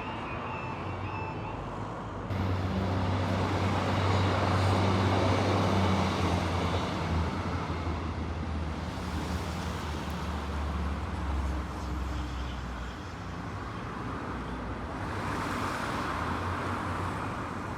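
A train passing over a level crossing: a sudden rise about two seconds in to a steady low engine drone with rolling noise that lasts about ten seconds, then dies down, followed by a road vehicle passing near the end.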